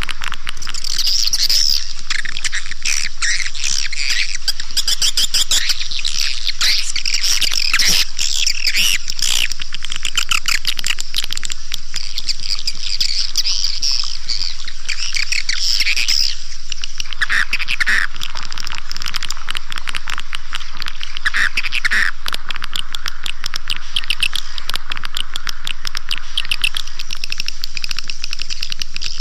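Swiftlet lure-call recording ('suara panggil'): a dense, continuous chorus of high chirping and twittering over rapid clicking, played through speakers to attract swiftlets to a nesting house.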